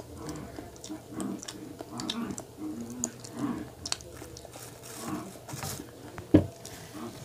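Chewing a soft chocolate-coated, marshmallow-filled donut, with wet mouth clicks and lip smacks. One short, loud thump comes a little after six seconds.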